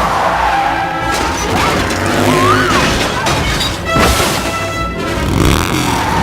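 Film chase soundtrack: orchestral score mixed with crash and impact effects, the sharpest hit about four seconds in.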